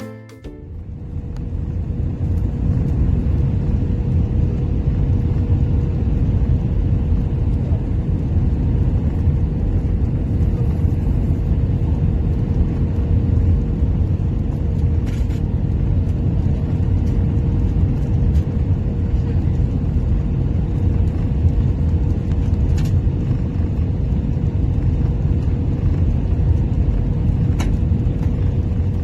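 Steady low rumble of a moving vehicle's interior, with a constant hum held at one pitch and a few faint clicks.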